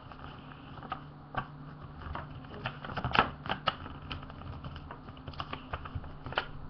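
A sheet of paper being worked by hand on a table while making a paper airplane: irregular light clicks, taps and rustles, a cluster of louder ones about three seconds in, over a low steady hum.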